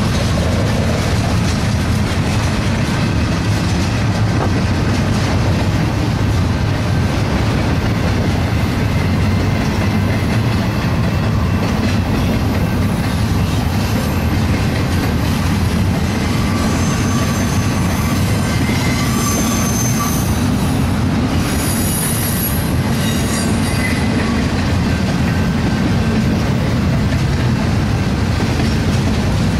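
BNSF double-stack container train rolling past: a steady, loud rumble of steel wheels on rail, with thin high-pitched wheel squeals coming and going in the second half.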